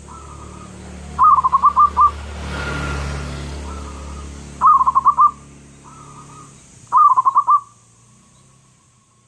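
Zebra dove (perkutut) cooing: three loud phrases of quick staccato notes, each under a second long, with fainter calls between them. A rushing noise swells and fades in the middle, over a low steady hum.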